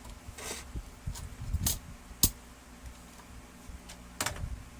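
Scattered clicks and light knocks of plastic and metal parts handled during the disassembly of a laser printer's drive motor, the sharpest click a little past two seconds in.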